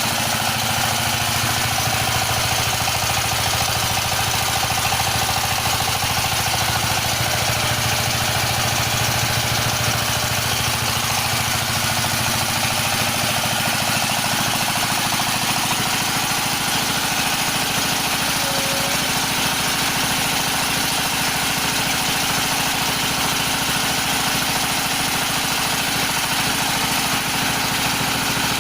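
Floating fish-feed pellet machine running steadily, with a continuous, even mechanical drone.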